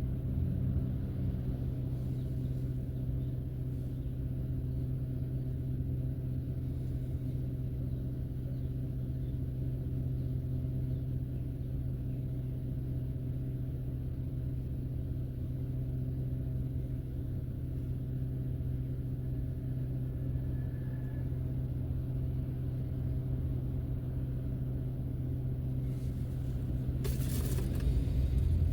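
Car driving at a steady pace: a constant low hum of engine and road noise, heard from inside the car. A short burst of higher-pitched noise comes near the end.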